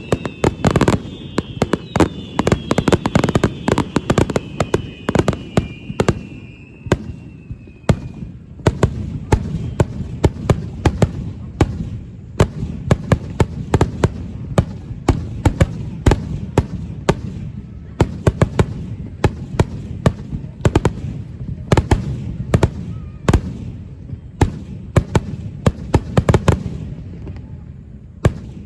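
Fireworks display: a dense barrage of sharp bangs and crackling bursts over a low rumble, with several falling whistles in the first few seconds. The bangs stop shortly before the end.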